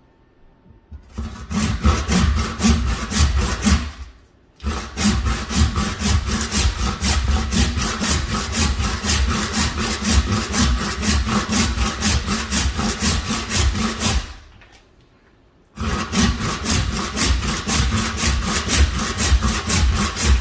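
Rhythmic back-and-forth strokes of a blade working through a buffalo leg, about three strokes a second. The strokes come in three spells with two short pauses between them.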